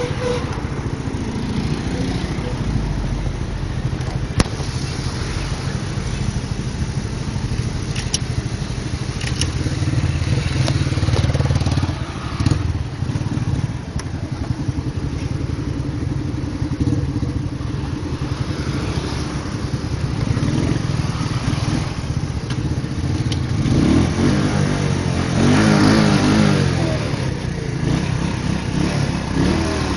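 Motorcycle engine running steadily as it is ridden, with the engine note rising and falling a few times near the end.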